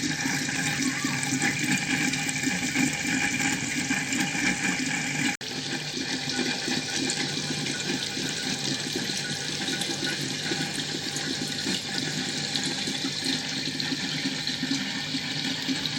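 Water from a homemade Buddha-face fountain, driven by a small cooler pump, falling and splashing steadily into its basin. The sound drops out for an instant about five seconds in.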